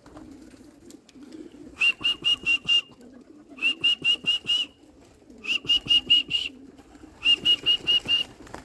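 Pigeons cooing softly at a loft, under a high, sharp chirping call of five or six quick notes repeated four times, about every two seconds.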